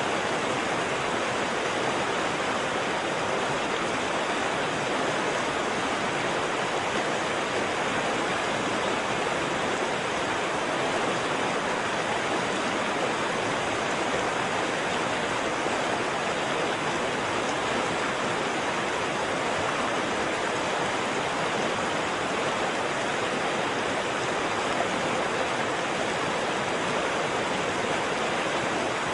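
Waterfall: water falling and rushing in a steady, even roar with no pauses or changes.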